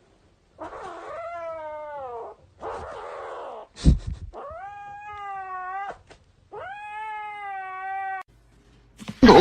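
A domestic cat yowling: three long, drawn-out meows, the first sliding down in pitch at its end. A short thump comes just before the second call.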